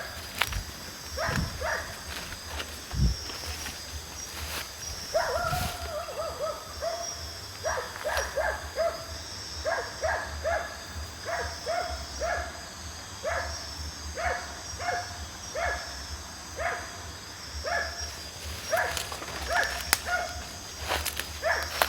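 An animal giving short calls over and over, each dropping slightly in pitch, about one to two a second, against a steady high-pitched chirring.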